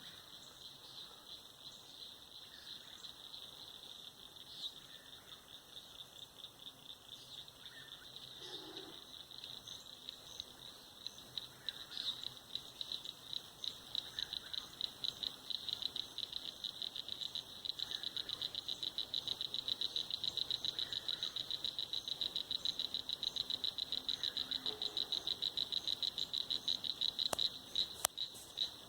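Night chorus at a pond: a rapid, pulsing high trill that grows louder about halfway through, with a few faint, lower calls beneath it and two sharp clicks near the end.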